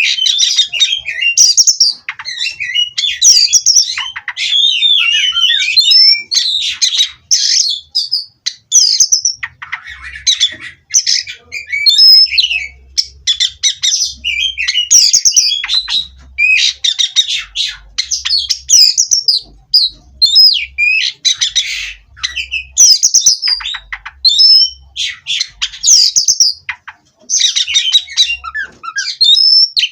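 Oriental magpie-robin (kacer) singing loudly and continuously: a rich, varied string of whistles, chirps and trills in quick phrases, each a second or two long with short breaks between.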